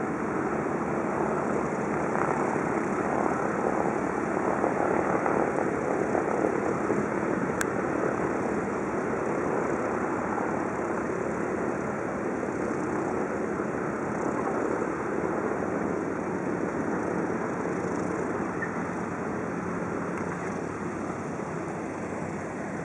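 Piston-engine propeller aircraft engine running with a steady drone that swells slightly a few seconds in.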